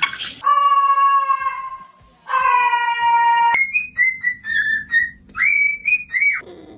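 Parrot whistling: two long held whistles, each sliding slightly down in pitch, then a quick run of short chirps and a final whistle that rises and then drops.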